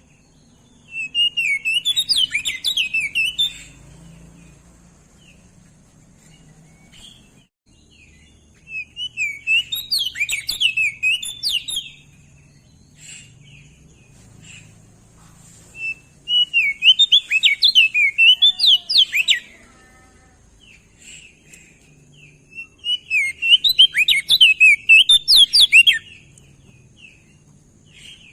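Crested white-eye (opior jambul) singing four rapid, warbling phrases of high chirping notes, each lasting about three seconds, with pauses of a few seconds between them.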